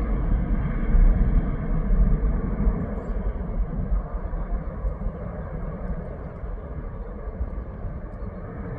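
Boeing 737-800's CFM56 jet engines rumbling after takeoff, slowly fading as the aircraft climbs away.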